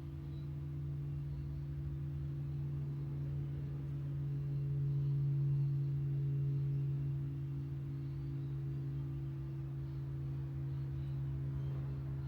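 Robotic lawn mower's electric motor and spinning blade giving a steady hum, growing a little louder in the middle before settling again.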